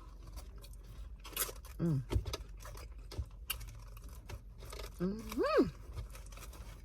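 A person chewing french fries close to the microphone, with scattered short mouth clicks. Two brief hums of enjoyment break in, the second a longer rising-then-falling 'mmm' about five seconds in.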